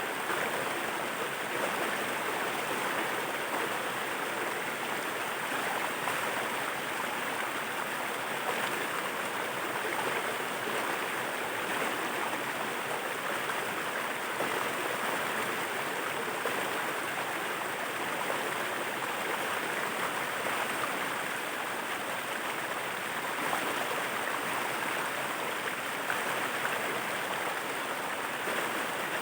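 Waterfall's water falling and rushing in a steady, unbroken noise.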